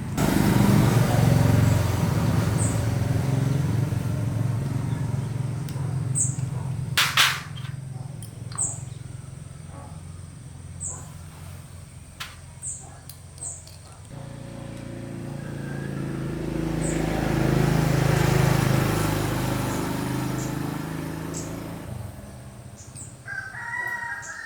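A motorbike engine running and fading away over the first several seconds, with a single sharp knock about seven seconds in, then an engine swelling up and dying away again. Small birds chirp throughout, and a rooster crows near the end.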